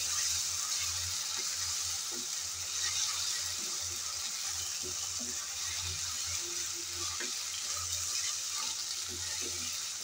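Chopped onions with ginger and garlic paste sizzling in hot oil in an aluminium kadai, stirred with a wooden spatula that scrapes the pan in light, uneven strokes. A low steady hum runs underneath.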